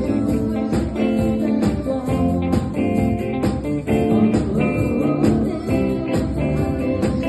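A band playing music with held notes over a steady beat.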